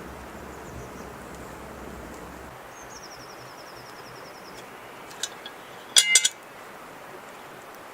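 Steady outdoor background with a bird's fast, high trill for about two seconds. A few sharp ringing clinks of hard objects knock together about six seconds in and are the loudest thing heard.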